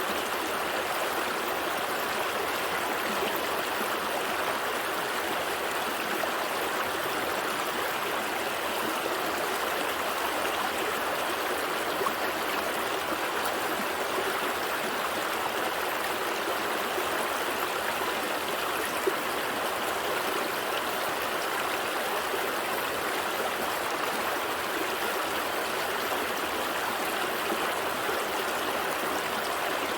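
Gentle stream flowing steadily over stones, an even rushing babble with a few small splashes in it.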